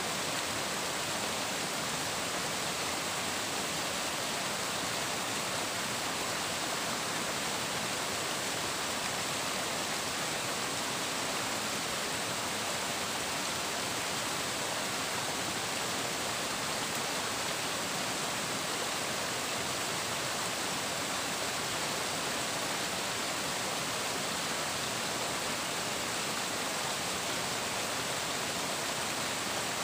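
Flowing water rushing in a steady, even stream, with no breaks or changes.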